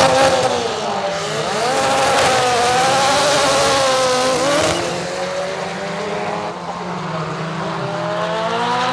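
Drag race cars, a rear-wheel-drive Chevette against a four-wheel-drive Golf, running hard. The engine pitch climbs, drops sharply at a gear change a little under five seconds in, and climbs again near the end.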